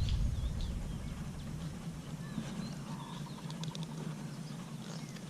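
Faint outdoor background with a low rumble fading out over the first two seconds, then a few small clicks and faint short chirps.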